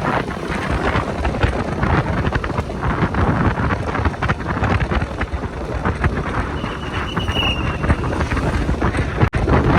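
Wind buffeting the microphone of a riding motorcycle, a steady rushing flutter with road and engine noise underneath. A short high tone sounds about seven seconds in, and the sound drops out for an instant near the end.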